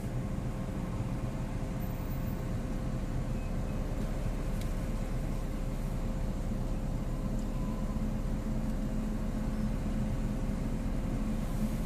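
Car idling, heard from inside the cabin: a steady low rumble with a faint constant hum.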